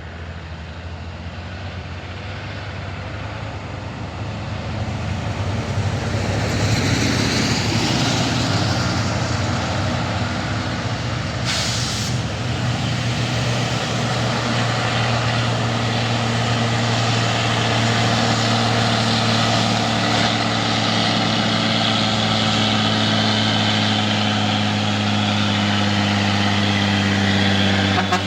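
Heavy diesel truck engine growing louder over the first several seconds as it comes close, then running steadily nearby. A short sharp air hiss sounds about twelve seconds in.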